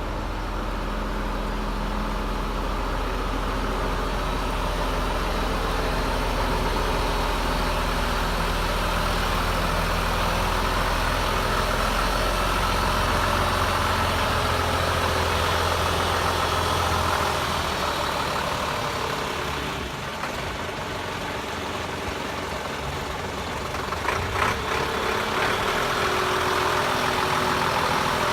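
1990 Scania fire truck's diesel engine idling steadily. Its low note changes about two-thirds of the way through, and a few light knocks come near the end.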